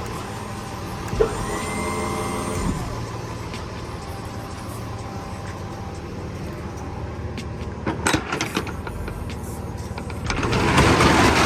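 A box truck's lift gate hydraulic pump motor whines for about a second and a half near the start, over a steady low hum. A few sharp clicks come later, and a louder rattling burst of noise near the end.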